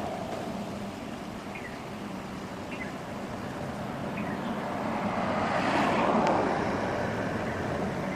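Highway traffic rushing by, with one vehicle passing close that swells up and fades away about six seconds in.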